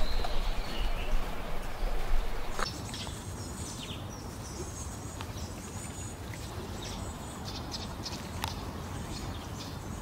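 Short, thin, high-pitched bird calls repeating over a steady hiss, after a low rumble that fills the first two and a half seconds and then stops.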